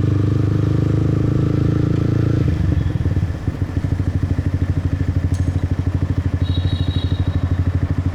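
Motorbike engine running steadily, then dropping about two and a half seconds in to a lower, evenly pulsing putter.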